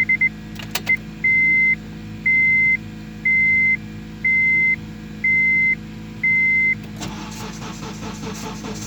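A car's dashboard warning chime beeps six times, about once a second. About seven seconds in, the 2006 Honda CR-V's starter begins cranking the engine after a week unused, a car that has always been a slow starter.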